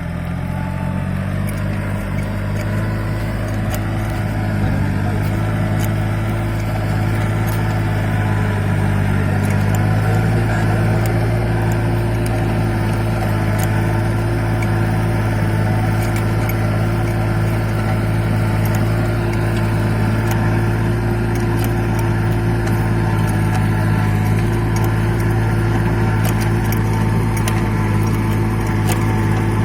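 Farmtrac mini tractor's diesel engine running, its speed rising over the first ten seconds or so and then holding steady, with faint clicks over it.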